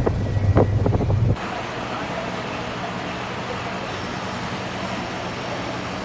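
A tractor's diesel engine runs loudly with irregular knocks. About a second in, it cuts abruptly to a quieter, steady engine sound with a rushing noise like wind on the microphone.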